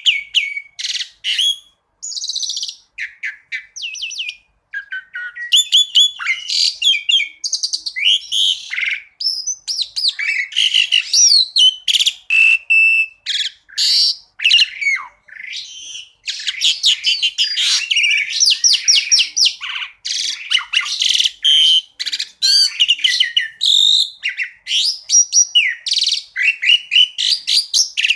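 Asian pied starling (jalak suren) singing a rapid, varied song of sharp chirps, whistles and fast trills, in quick bursts with brief pauses between them.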